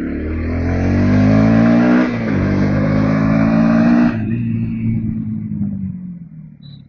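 Bajaj Pulsar NS160's single-cylinder engine accelerating, its pitch rising for about two seconds, dipping briefly, rising again, then falling away sharply about four seconds in and dying down.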